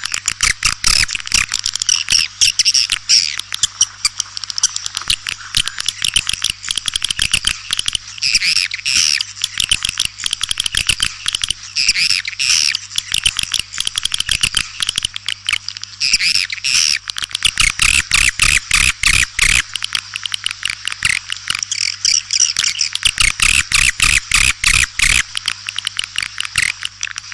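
Swiftlet call recording: a dense, continuous chatter of rapid clicks and high twittering chirps from many swiftlets, the kind of lure call played to draw swiftlets into a nesting house. A faint steady hum runs underneath.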